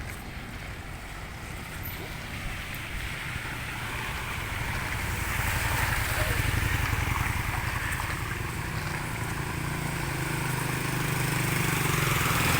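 Wind rumbling on the microphone over road traffic; a steady engine hum comes in and grows louder over the last few seconds as a vehicle draws near.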